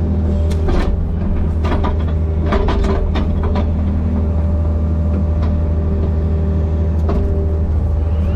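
Diesel excavator engine running steadily under work, with several sharp knocks and cracks from the machine working a tree stump, most of them in the first few seconds and one more near the end.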